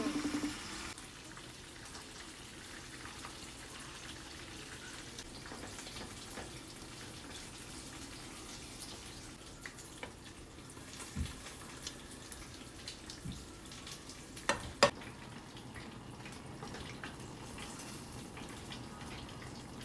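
Chicken frying in oil in a skillet: a steady, faint sizzle. A few short knocks cut through it, the loudest two close together about three-quarters of the way through.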